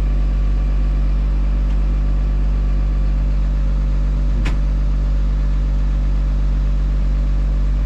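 Farm machine engine running steadily at constant speed, with a deep, even hum. A single short click about four and a half seconds in.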